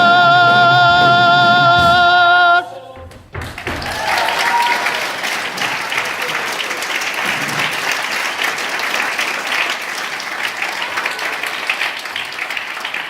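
A sustained final sung note with vibrato, with musical accompaniment, cuts off about two and a half seconds in. After a brief gap, an audience breaks into steady applause and cheering, with a whoop near the start.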